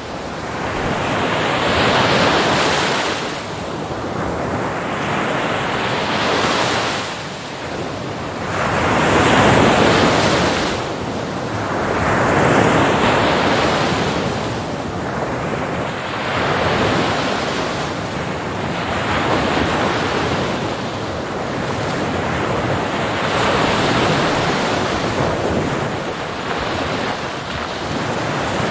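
Ocean waves breaking and washing on a beach, swelling and ebbing every two to three seconds, with some wind noise on the microphone.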